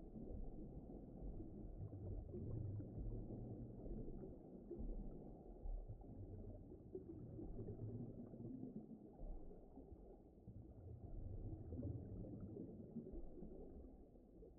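Faint, muffled underwater-style ocean ambience: a low rumble with nothing high in it, slowly swelling and fading.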